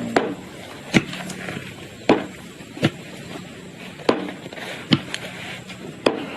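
A series of sharp knocks, six in all, irregularly spaced about a second apart.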